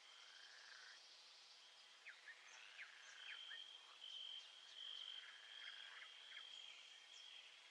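Faint night-time chorus of frogs and insects: a steady high trill with many short, quick chirps scattered over it, busiest in the middle.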